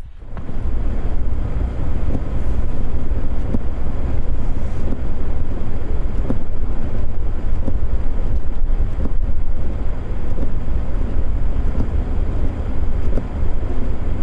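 Off-road vehicle fitted with snow chains driving through fresh snow: a steady low rumble of engine and tyres that starts suddenly and keeps on, with faint ticks mixed in.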